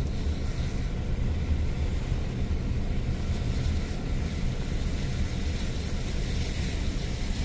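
A car driving: a steady low rumble of engine and tyres.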